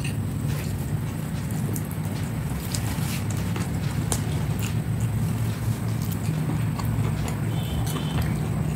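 A person chewing a mouthful of biryani, with scattered short wet mouth clicks, over a steady low hum.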